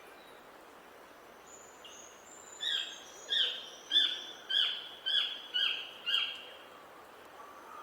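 A bird singing a phrase of about seven loud, evenly repeated call notes, roughly one and a half a second, preceded by a few faint, thin, high notes.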